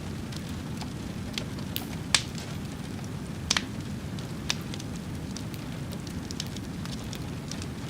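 Fire burning with a steady low rumble and irregular sharp crackles and pops, the loudest about two seconds in and again about three and a half seconds in.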